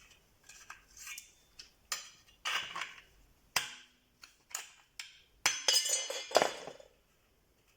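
Tin snips cutting a thin galvanized steel drywall profile: a string of sharp, separate snips and clicks, then a louder ringing metal clatter about five and a half seconds in as the steel profile is handled.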